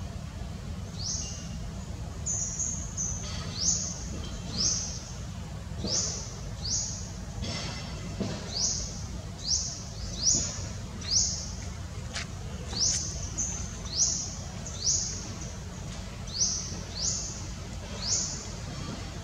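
A bird calling over and over: short, high chirps that each rise quickly in pitch, about one a second, over a steady low rumble.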